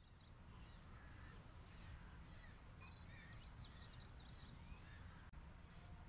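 Faint outdoor ambience: small birds chirping and trilling here and there over a low steady rumble.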